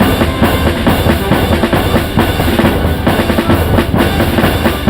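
Loud music with a driving drum-kit beat, bass drum and snare hitting at a steady rhythm.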